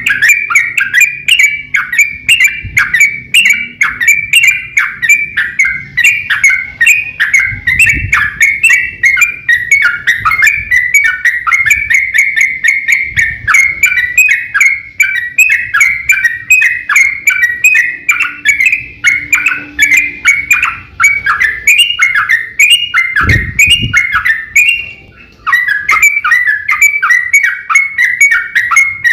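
Yellow-vented bulbul (trucukan) singing in the rapid rolling 'ropel' style: a dense, unbroken run of short warbled notes, several a second, broken only once for about half a second a few seconds before the end. A low thump comes just before that break.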